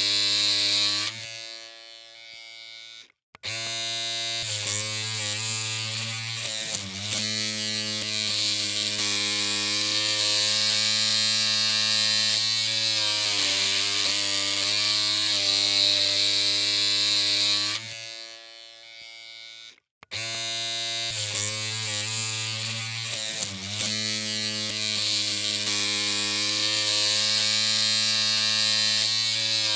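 Electric hair clippers running with a steady buzzing hum. Twice the hum fades and cuts out for a moment, then starts again.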